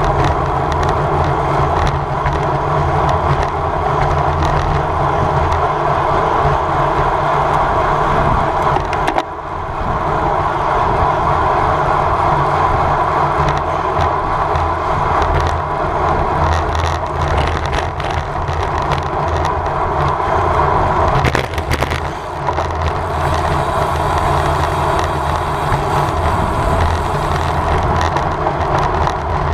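Steady wind and road noise from a road bike ridden at race speed, rushing over the microphone. It dips briefly about nine seconds in and again a little past twenty seconds.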